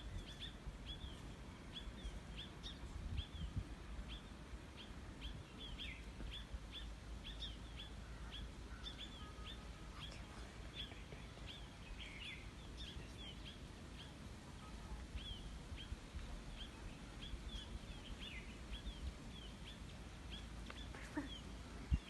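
Small birds chirping over and over, short sharp falling chirps about two or three a second, over a low steady rumble.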